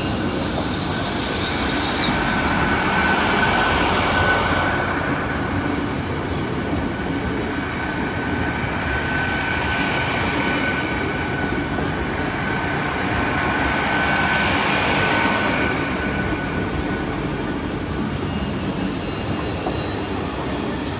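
LNER Class 800 Azuma bi-mode train passing slowly over a level crossing on diesel power, with a steady rumble of engines and wheels on the rails. A single high, steady wheel squeal sets in about two seconds in and holds until about sixteen seconds.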